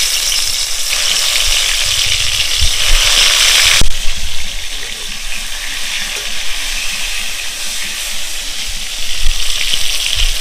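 Whole pointed gourds (potol), rubbed with salt, turmeric and chilli powder, sizzling as they fry in hot oil in a wok. The loud frying hiss drops suddenly to a quieter, steady sizzle about four seconds in.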